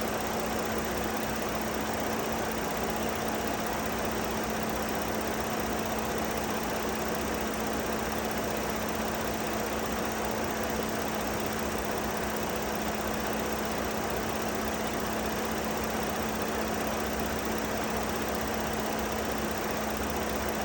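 2008 Ford Edge's 3.5-litre V6 idling steadily with the air conditioning running, a constant hum under an even mechanical noise.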